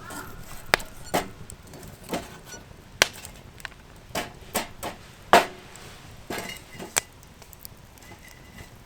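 A series of sharp, irregular chopping knocks, about a dozen over several seconds, some with a brief ring after the strike.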